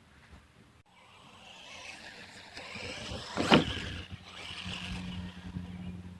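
Remo Hobby 1096 RC monster truck driving, with a rising whir from its drivetrain and tyres. A loud, brief sweep about halfway through, when the truck comes closest, is the loudest moment, and a steady low hum follows.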